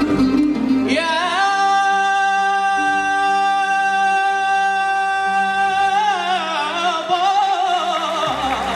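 A singer holds one long high note for about five seconds in an Arabic song, over a steady instrumental accompaniment, then ends the phrase with a wavering run that falls in pitch.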